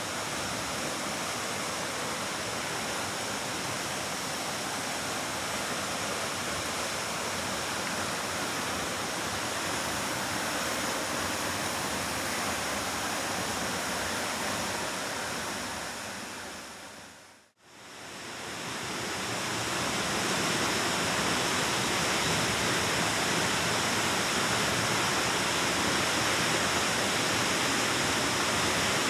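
Waterfall rushing steadily. About two-thirds of the way through it fades out to a brief dip and fades back in, slightly louder than before.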